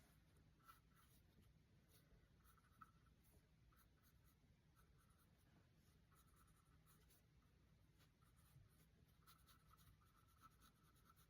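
Near silence, with faint strokes of a paintbrush scratching and rubbing on canvas as acrylic paint is blended.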